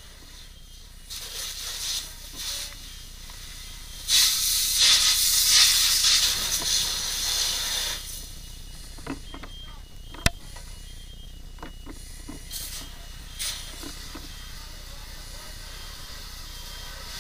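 Bursts of loud hissing spray from a fire hose nozzle, the longest lasting about four seconds. There is one sharp knock about ten seconds in, over a low steady rumble.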